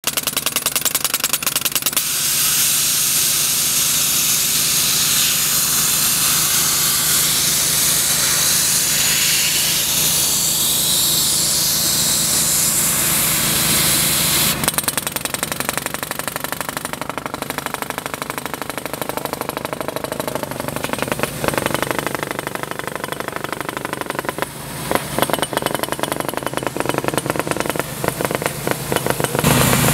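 Engine-driven drilling machinery running with a rapid, even pulse, part of petroleum exploration drilling. About halfway through the sound changes abruptly and drops slightly in level.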